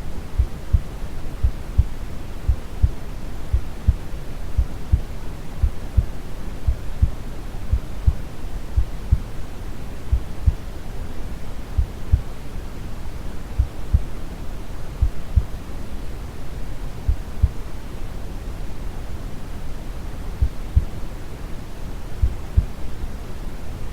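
Brown noise, a steady deep hiss, with a calm heartbeat's low thumps repeating evenly over it.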